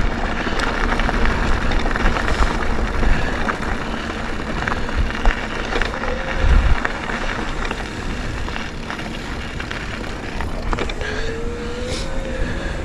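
Mountain bike in motion on a dirt trail: wind buffeting the camera microphone, with steady tyre and trail noise and many small rattles and clicks from the bike. A brief rising squeal comes near the end.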